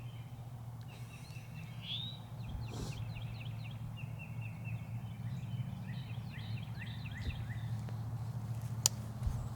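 Small birds singing in the woods: runs of rapid, short, high falling chirps, over a steady low hum. A single sharp click near the end.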